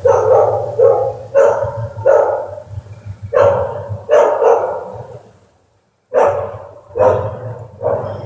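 A dog barking over and over in short, quick barks, with a brief pause a little past the middle.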